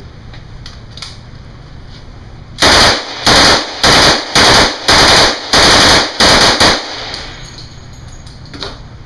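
Thompson M1A1 submachine gun firing .45 ACP in full auto: about eight short bursts in quick succession, starting about two and a half seconds in and lasting some four seconds.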